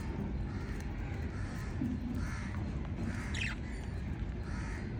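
Lovebirds calling in short, harsh, repeated squawks, with one sharp call falling steeply in pitch a little past the middle, over a steady low rumble.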